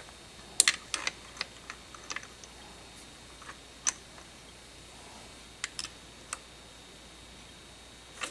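Scattered sharp clicks and taps of hand tools on metal engine parts, irregular and unrhythmic, the loudest cluster about half a second in.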